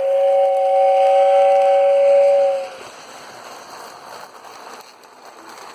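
Lionel toy train's whistle sound, one steady two-note blast lasting a little under three seconds, followed by the steady rumble of the train running along its track.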